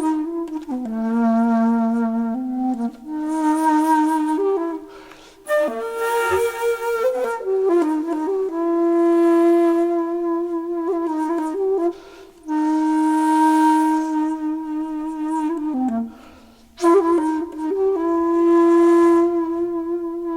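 Background music: a slow solo flute melody of long held notes, broken into phrases by short pauses.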